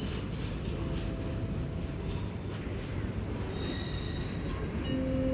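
A Deutsche Bahn ICE train rolls slowly over the tracks with a steady low rumble. Thin squealing tones from the wheels on the curved track come and go, growing stronger near the end.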